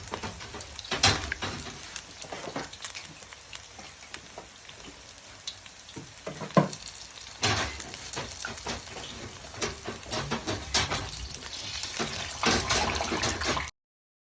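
Rolled chicken taquitos sizzling as they fry in a pan, with occasional clicks and clatter of a utensil against the pan and several louder bursts of sizzling.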